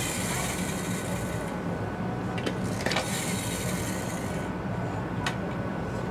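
Steady low running rumble of a Shinkansen train heard from inside the car. Two stretches of high hiss and a few sharp clicks come on top of it.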